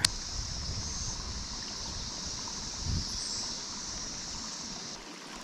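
Steady rushing of flowing creek water, with wind rumbling on the microphone; both drop away sharply about five seconds in.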